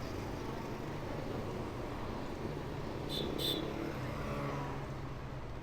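Street traffic heard from a bicycle: steady engine and road noise from passing vehicles, with two short high chirps about three seconds in.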